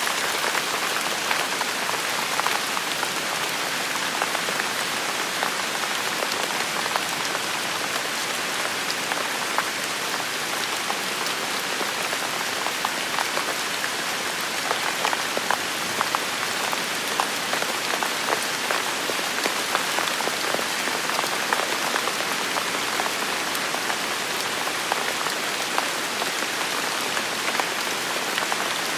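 Steady rain falling on a surface: a dense even hiss with many distinct drop patters.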